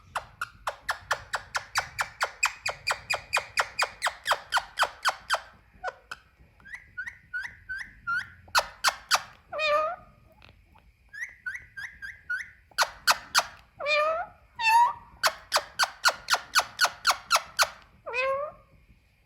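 Indian ringneck parakeet calling: fast runs of short, shrill repeated calls at about five a second, broken by short series of softer falling chirps and a few longer, harsher squawks.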